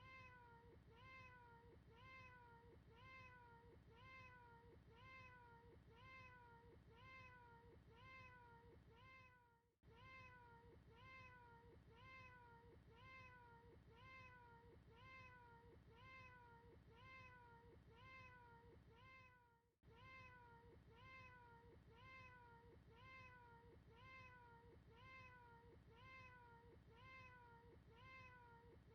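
A recorded cat's meow looped over and over: short, identical meows about three every two seconds, with a brief dropout roughly every ten seconds where the loop restarts.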